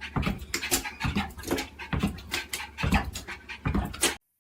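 A dog making a quick series of short, sharp sounds with low thumps among them, cutting off suddenly near the end.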